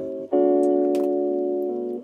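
Background piano music: slow, sustained keyboard chords, with a new chord struck about a third of a second in that rings and slowly fades.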